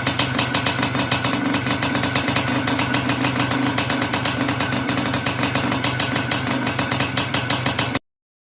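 Izh Planeta Sport single-cylinder two-stroke motorcycle engine idling with steady, even firing pulses. It stops abruptly near the end.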